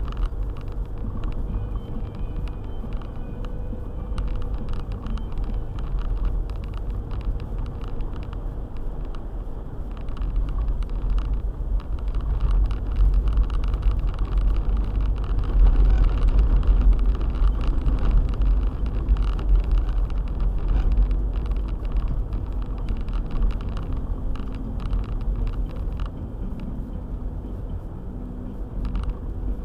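Car driving on a snowy road: a steady low rumble of engine and tyres with scattered small clicks and knocks, growing louder for a while around the middle.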